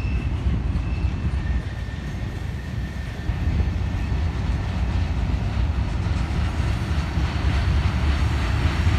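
Freight cars of a mixed manifest train rolling past on the rails: a steady low rumble of wheels on track, growing a little louder about a third of the way in.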